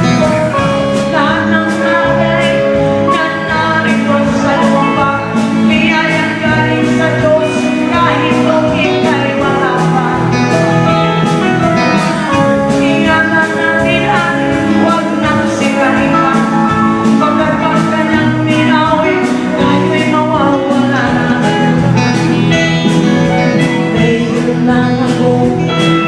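Live band playing with guitars over a steady drum beat.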